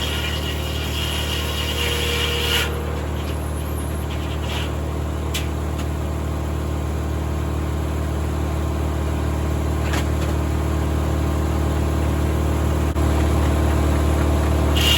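Tractor engine running steadily as it powers a 1950 Corley circular sawmill. A higher-pitched noise over it stops about two and a half seconds in and comes back near the end.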